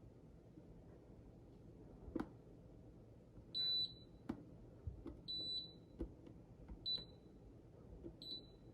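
Refrigerator's electronic control panel beeping at button presses: four short, high, single-pitched beeps a second or so apart, the first the longest, with quiet clicks of the buttons between.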